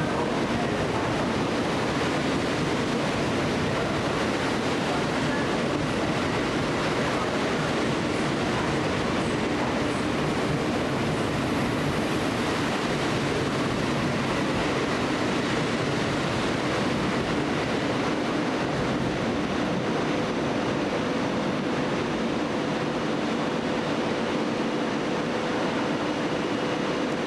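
Steady running noise of a train, an even rumble with faint steady hums that holds without a clear start or stop.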